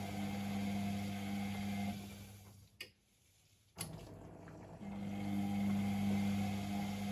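Privileg Sensation 952 S top-loading washing machine turning its drum in the wash rhythm. The motor runs with a steady hum, winds down about two seconds in, and pauses for about a second with a click at each end of the pause. It starts again about five seconds in.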